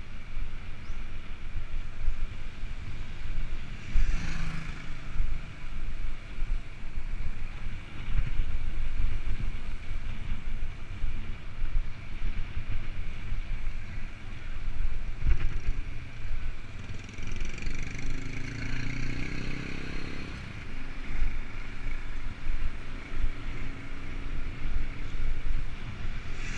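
Wind buffeting the microphone while riding a bicycle, as a low uneven rumble. A motor vehicle passes at about two-thirds of the way through, its engine sound rising and then falling away.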